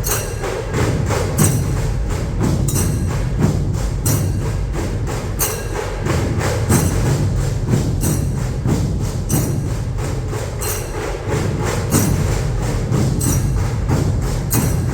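A dhol-tasha ensemble playing: dense low dhol drumming under rapid tasha strokes, with a sharp bright accent about every 1.3 seconds.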